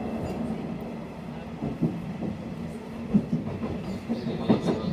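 Nishitetsu electric commuter train running, heard from inside the passenger car: a steady low rumble with the clack of wheels over rail joints, a few sharper knocks coming in the second half.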